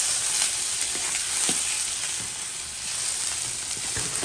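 Lake fish cooking in a big iron wok of beer-and-stock broth over a fierce fire: a steady sizzling hiss with a few light knocks.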